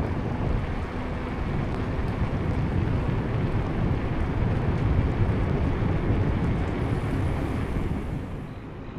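Wind buffeting the microphone of a camera carried on a ride in the rain: a loud, steady, low rumbling rush that eases off a little near the end.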